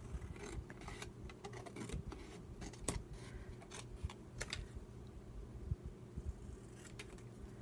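Scattered light clicks and taps of paper and craft tools being handled on a work table, over a steady low hum.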